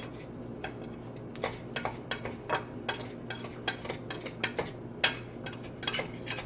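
A utensil stirring and scraping rice as it fries in oil in a pan, in irregular clicks and scrapes, to toast the grains golden.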